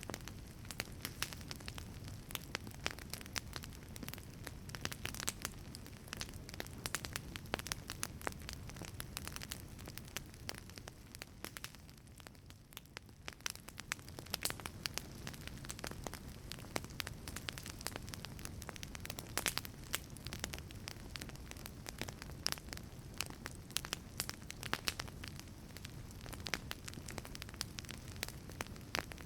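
Wood fire burning inside a wood-fired pizza oven: frequent sharp crackles and pops over a low steady rush of flame, thinning out briefly about halfway through.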